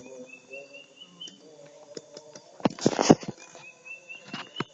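A songbird singing a short phrase of whistled notes that climb step by step, given twice. Between the phrases, a cluster of sharp clicks and knocks about three seconds in is the loudest sound.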